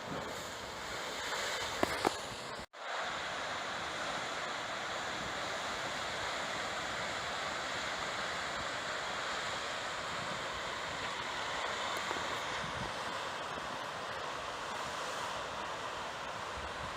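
Heavy surf from high post-typhoon waves, a steady rushing wash of breaking water with some wind. Two sharp clicks and a brief cut-out occur a couple of seconds in.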